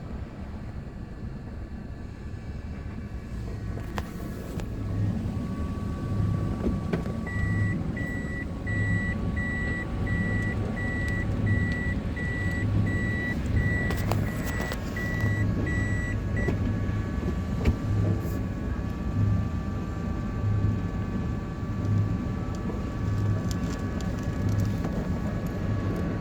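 Toyota Vitz's 1NZ four-cylinder engine running on test, with a low uneven throb. About seven seconds in, a rapid high electronic beep starts, about two beeps a second, and stops after roughly nine seconds.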